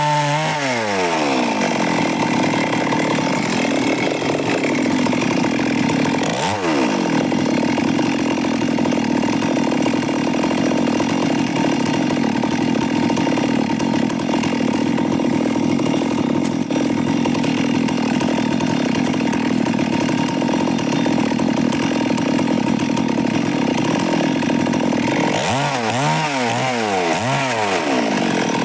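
Stihl MS 382 two-stroke chainsaw at full throttle ripping lengthwise through a log, its engine note pulled down and held steady under load in the cut. About six and a half seconds in the speed dips and recovers, and near the end the saw revs freely out of the cut, its pitch wavering.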